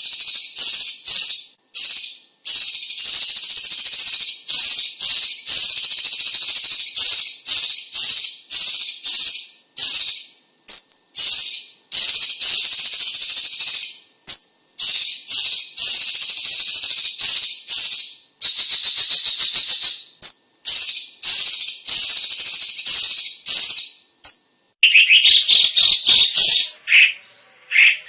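Cucak cungkok singing a loud, dense song: runs of very rapid high notes lasting from under a second to several seconds, separated by brief gaps. Near the end it switches to a lower, differently patterned phrase.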